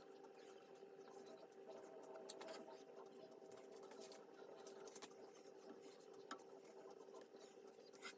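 Near silence: a faint steady hum with a few light, scattered clicks.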